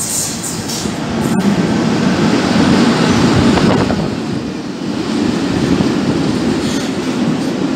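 Freight train of empty flat wagons rolling past at close range: a steady, loud rumble of wheels on rails. A single sharp click sounds about a second and a half in.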